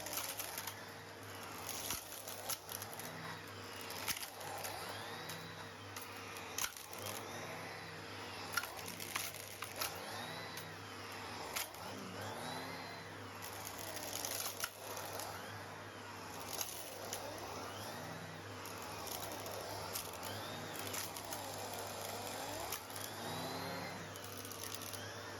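Numatic Henry canister vacuum cleaner running with a steady hum while it sucks up small stones, which clink and rattle irregularly through the hose. The suction note rises and falls every couple of seconds as the nozzle moves.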